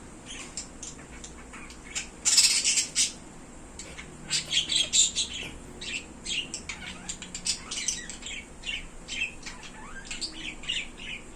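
Pet birds chirping and squawking in quick, repeated short calls, with a loud harsh squawk about two seconds in.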